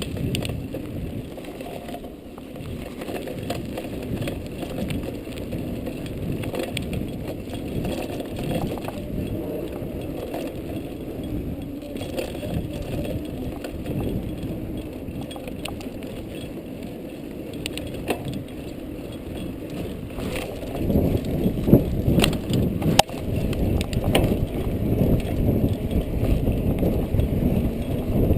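Rattling, clicking and rumbling of a ride over a rough forest trail, with no engine heard, getting louder and bumpier about three-quarters of the way through.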